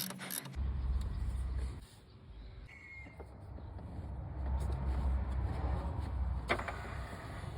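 Strange noise from a BMW's steering, with a brief high squeak about three seconds in over a low rumble and a few clicks. It is the kind of dry-rubbing noise that grease cures.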